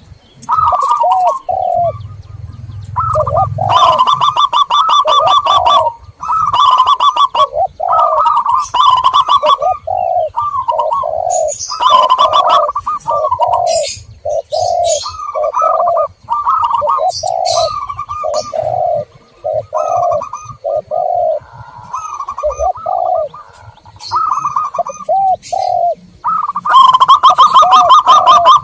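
Zebra doves and spotted doves cooing over and over in quick succession, mixed with brief high chirps from small birds. Near the end the calls turn into a fast, loud run of rapid repeated notes.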